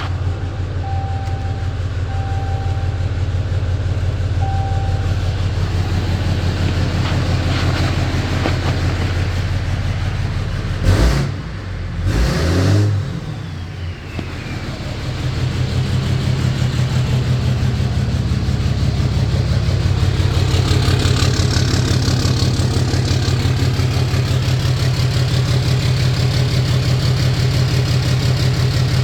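Ram 2500/3500's 6.7 L Cummins turbodiesel running through a new 5-inch turbo-back exhaust with the muffler deleted: a deep steady idle, then a couple of quick revs about eleven seconds in, after which it settles into a steadier, higher-pitched run. The exhaust note has a lot more tone.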